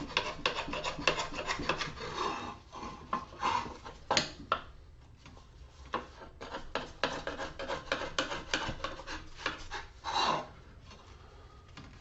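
A hand scraper scraping stuck-on weather stripping off metal in quick, rasping strokes, several a second. The strokes come in two runs with a lull between them, and there is one longer stroke near the end.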